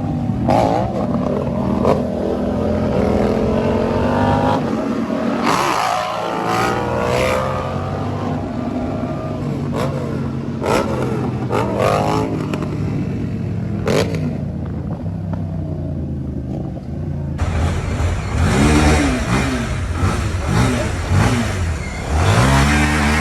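Motorcycle engines revving and accelerating, their pitch rising and falling repeatedly. About seventeen seconds in the sound changes abruptly to another engine, which revs up steeply near the end.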